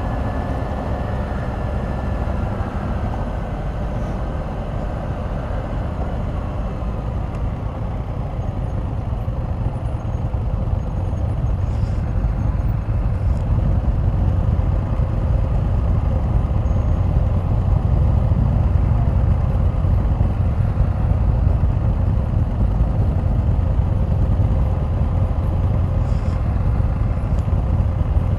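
Can-Am Spyder RT three-wheeled motorcycle running on the road, a steady low rumble of engine and road noise. It grows a little louder about ten seconds in as it picks up speed.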